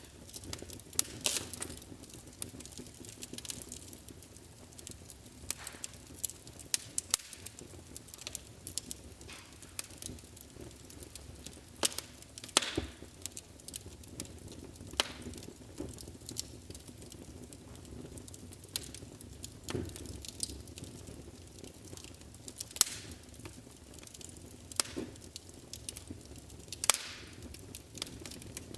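Wood fire burning in a fireplace: a low steady hiss under irregular sharp crackles and pops, a few loud ones standing out.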